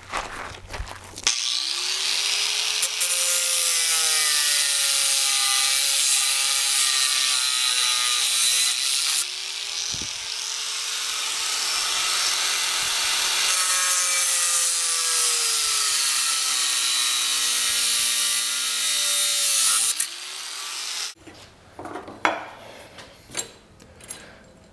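A power tool cutting off the hoe's worn, thin steel blade: a steady harsh cutting noise whose motor pitch sags and recovers as it bears into the metal. It stops a few seconds before the end, leaving a few light knocks of handling.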